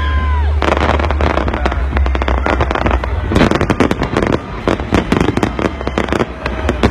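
Fireworks display: a dense, rapid barrage of bangs and crackles over a low rumble, with a whistle falling away in the first half-second.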